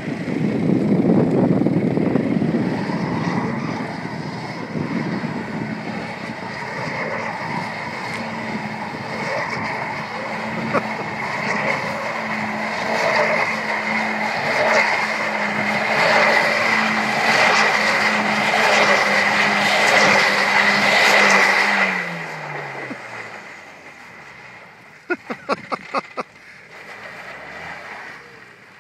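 Mini Countryman 4x4's engine held at steady high revs over a rushing noise as the car slides round in tight circles on snowy ice. About 22 seconds in, the revs drop away and the engine fades. A quick run of five or six clicks follows a few seconds later.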